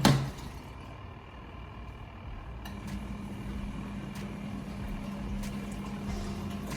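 Mini portable washing machine running its wash cycle: a steady motor hum as the pulsator churns the water and clothes. A knock at the very start, then the hum drops out for a couple of seconds and picks up again about two and a half seconds in, with a few faint clicks.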